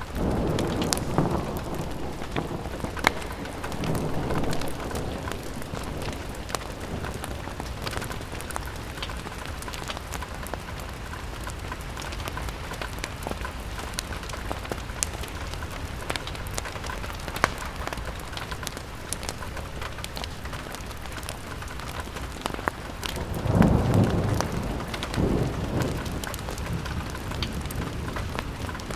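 Steady rain pattering on a window pane, with scattered sharp clicks throughout. Low rumbling swells come in near the start and again about 24 seconds in.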